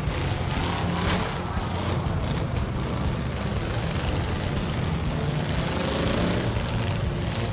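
Steady car engine sound, dubbed in for toy cars straining to haul a load up on a rope.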